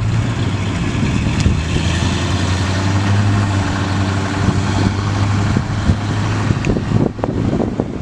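The 1986 Chevrolet K10's 305 cubic-inch V8 running steadily, with an even low hum; near the end the sound turns rougher and drops a little.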